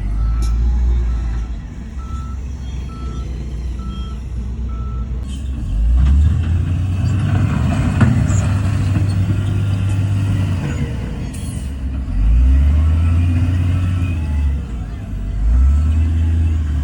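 Heavy diesel earthmoving machinery (bulldozer and dump truck) running, its low rumble swelling under load several times. A reversing alarm beeps about once a second for the first five seconds.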